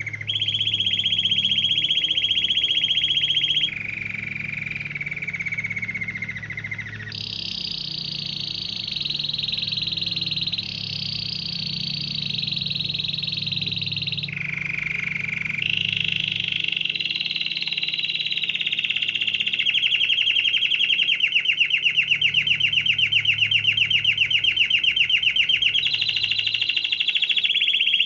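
Canary singing a long unbroken song of rapid trills, switching to a new repeated-note phrase every few seconds; near the end the notes slow into a pulsing roll.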